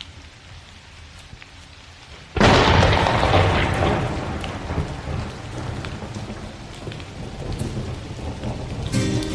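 Steady rain, then a sudden loud thunderclap about two and a half seconds in that rolls away slowly into a long rumble under the rain.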